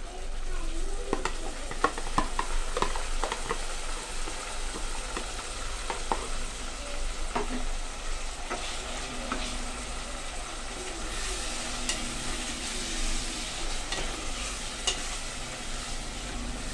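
Green masala paste of coriander, mint, green chillies, ginger and garlic sizzling in hot oil with onions in an aluminium pressure cooker, stirred with a steel spoon that scrapes and clinks against the pot; the sharp knocks come thickest in the first few seconds. The paste is being fried in the oil to cook off its raw smell.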